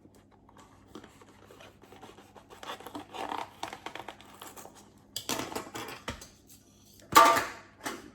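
Paper-wrapped stick of butter being handled and cut in half: rustling, scratching and scraping of the wrapper and knife, with one loud sharp clatter about seven seconds in.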